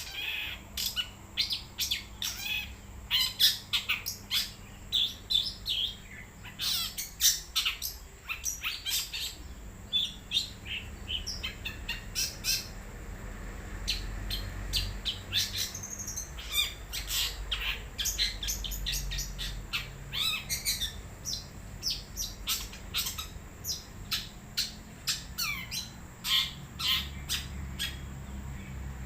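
Long-tailed shrike (cendet) singing a fast, varied run of short chirps and whistles, with brief pauses between phrases.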